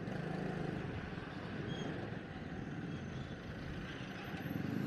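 Small motorcycle engine running steadily at low speed in slow, congested street traffic, with the hum of surrounding vehicles.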